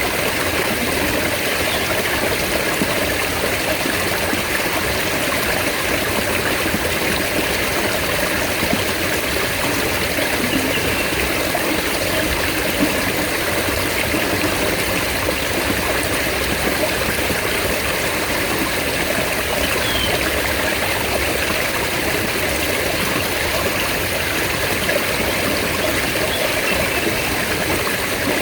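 Mountain stream water flowing and splashing in a steady, unbroken rush.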